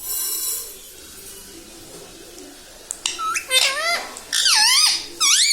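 Ringneck parrot giving a short harsh screech at the start, then from about three seconds in a run of loud, shrill calls whose pitch swoops down and back up over and over.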